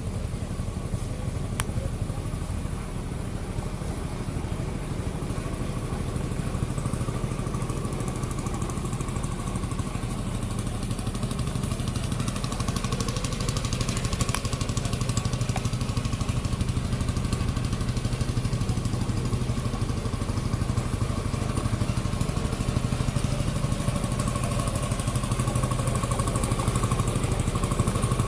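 Engine running steadily with an even, rapid beat, getting a little louder toward the end.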